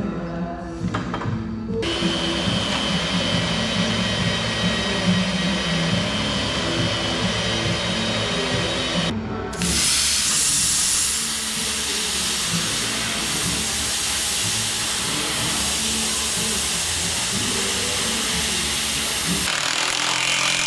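Background music over the steady hiss of a power tool running, which gets louder about halfway through.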